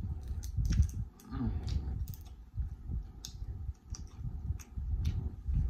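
Close-miked chewing of food, with many short wet mouth clicks and smacks.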